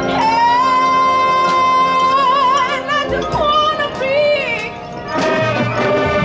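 High school marching band show music: a high solo line holds one long note, then wavers with vibrato and slides down, over sustained band chords with light percussion taps.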